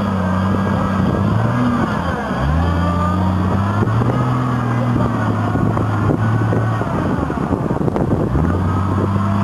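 Lifted Jeep Cherokee's engine working under load as it drives through deep mud and water, the revs holding, dropping sharply and climbing again about two seconds in and once more near the end.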